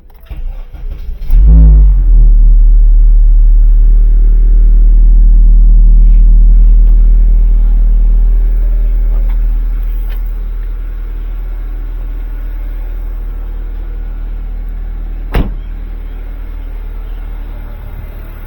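Honda car engine starting: it catches about a second in with a brief flare of revs, runs at a high fast idle, then settles to a lower steady idle. One sharp click near the end.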